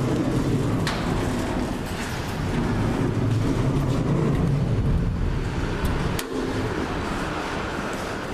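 Old freight elevator running with a steady low mechanical hum. A knock about six seconds in, after which the hum falls away.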